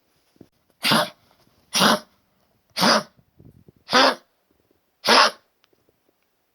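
Elderly dog coughing five times, about a second apart. It is a chronic cough that the owner attributes to a collapsed trachea and stage 3 congestive heart failure.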